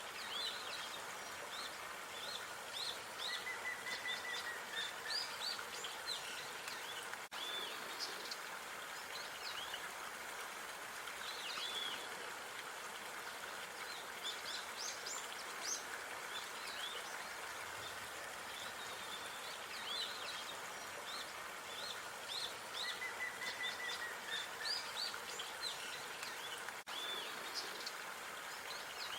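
Park ambience: small songbirds chirping in quick runs of short calls over a steady outdoor hiss. The sound drops out for an instant twice, where the loop joins.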